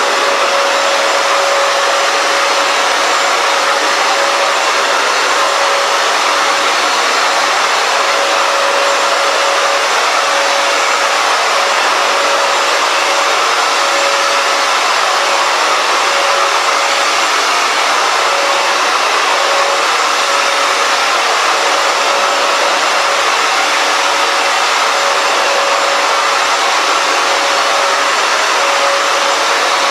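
Hoover FloorMate Edge wet/dry hard floor cleaner running: a steady, loud suction-motor rush with a constant whine under it.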